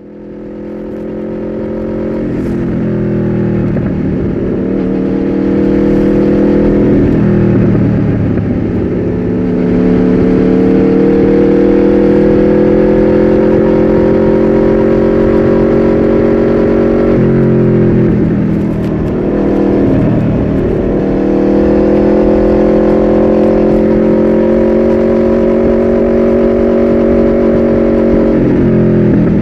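Aprilia RSV4's V4 engine through an Austin Racing GP2R aftermarket exhaust, running under way. The pitch climbs slowly, then dips and picks up again a few times, as at gear changes.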